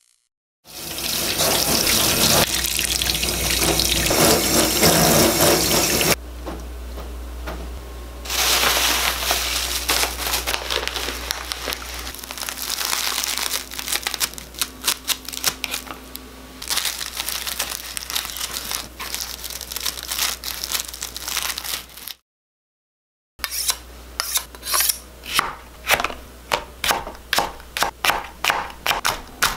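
Tap water running into a sink, then a kitchen knife chopping on a cutting board in quick regular strokes, about three or four a second, as green onion and garlic are cut.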